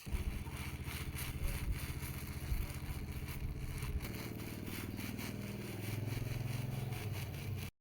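A motor running steadily with some rattling, a little stronger in the last few seconds, then cut off abruptly near the end.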